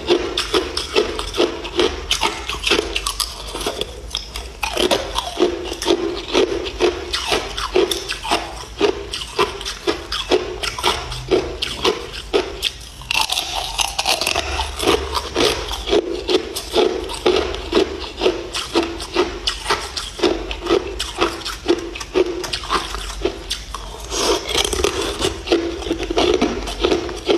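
Person chewing ice close to the microphone: a steady run of sharp crunches, about two a second, with a brief lull about halfway through.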